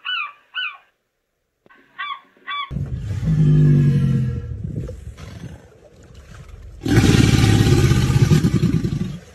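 Geese honking in short repeated calls, stopping briefly and then two more honks. From about three seconds in, a different, loud, low and rough animal call takes over, and a loud harsh rasping noise follows near the end.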